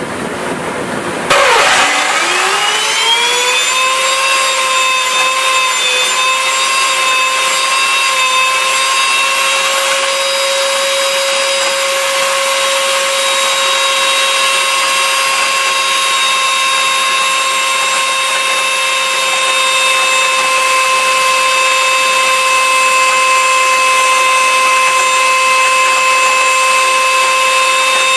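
Blendtec Total Blender motor spinning up a little over a second in. Its whine rises fast in pitch, then settles into a steady high-pitched drone that holds.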